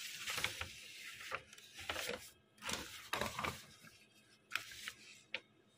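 Faint, irregular clicks and rustling: a few short sharp ticks over a low hiss.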